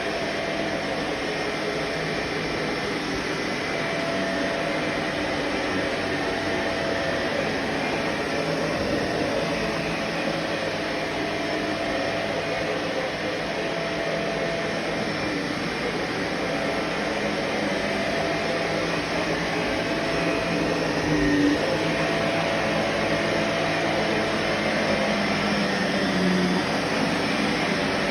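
Vacuum cleaner running steadily, a continuous rushing noise with a faint steady whine, getting slightly louder in the second half.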